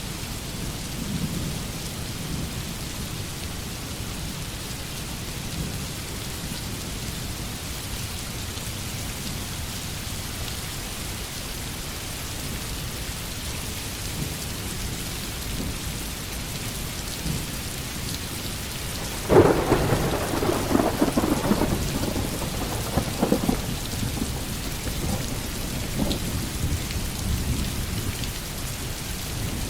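Heavy rain pouring steadily, with a clap of thunder breaking in suddenly about two-thirds of the way through, cracking and then rumbling away over several seconds.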